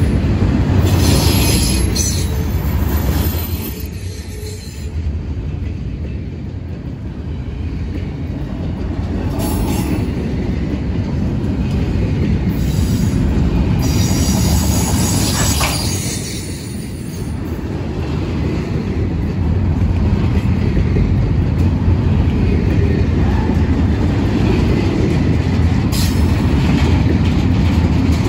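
Empty intermodal well cars of a CSX freight train rolling past close by: a steady low rumble of wheels on rail, with brief screeches of wheel squeal rising several times.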